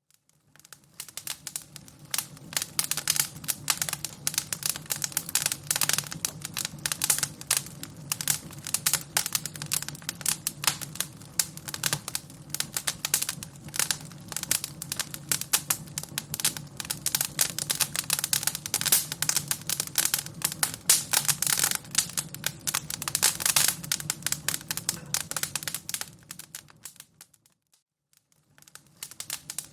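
Fire crackling: dense, irregular pops and snaps over a low steady rumble. It fades out about three-quarters of a second before... near the end, dies almost to silence for about a second, then picks up again.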